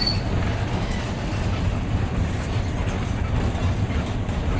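Bus running on the road, heard from inside the driver's cabin: a steady low engine and road rumble, with a couple of brief high-pitched squeaks, one at the start and one about halfway through.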